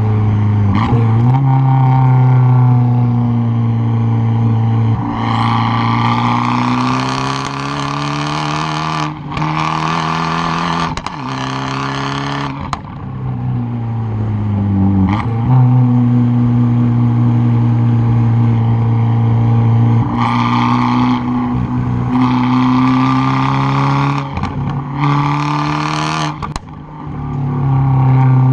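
Exhaust of a tuned 2013 Fiat 500 Abarth's turbocharged 1.4-litre four-cylinder, heard right at the rear bumper, pulling hard and lifting off again and again on a winding road, its pitch rising and falling. The two longest pulls, about a fifth of the way in and again about two-thirds through, are the loudest and harshest, each broken by sudden drops as it shifts.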